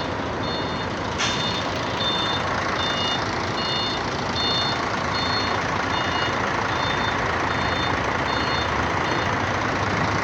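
Truck reversing alarm beeping steadily, about three beeps every two seconds, over the steady noise of running diesel truck engines. The beeping stops near the end, and there is a single sharp click about a second in.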